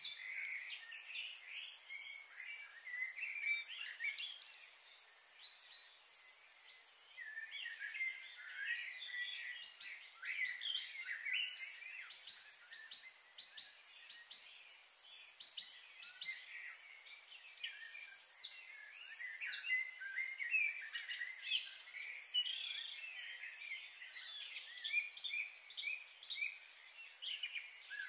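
Wild birds chirping, with many short, high calls overlapping one another.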